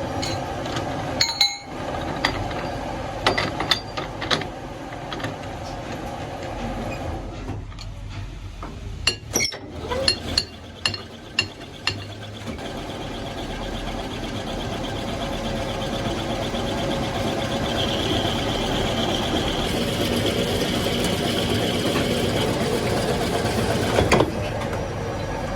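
Workshop machinery running steadily during metalworking, with a series of sharp metallic clanks and knocks in the first half. From about halfway on it runs on without them, slowly getting louder, with a high whine for a few seconds.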